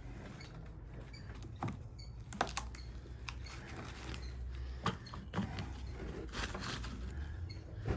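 Thick copper winding being worked off a welder transformer coil by hand, with a few scattered sharp clicks and knocks.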